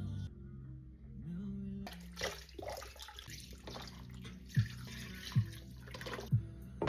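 Background music for about two seconds, then a kitchen tap running into a sink with a few short knocks.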